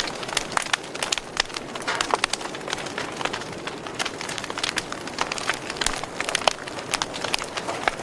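Wood fire burning in a fireplace, crackling with many irregular sharp pops and snaps over a low steady hiss.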